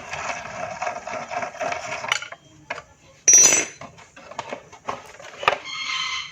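Metal tools and parts clinking and knocking against each other during hand work on a motorcycle engine, with a short, loud clatter about halfway through.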